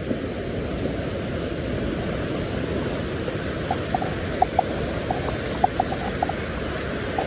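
Wind rumbling on the microphone over surf at the shoreline, a steady low noise. From about four seconds in comes a run of light, irregular clicks.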